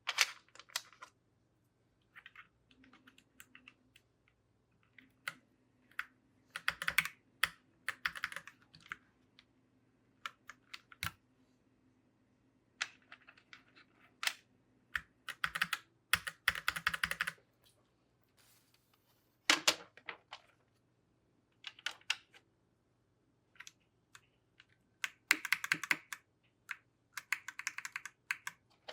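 Keycaps being pressed onto a mechanical keyboard's switches: clusters of plastic clicks and key clacks in irregular bursts, with short pauses between them.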